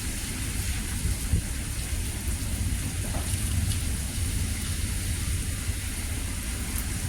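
Heavy thunderstorm rain falling, a steady hiss with a few faint drop ticks over a continuous low rumble.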